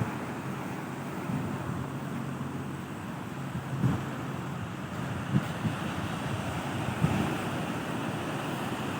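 Sea waves washing on a beach, with wind blowing on the microphone as a steady rush and a couple of brief faint knocks.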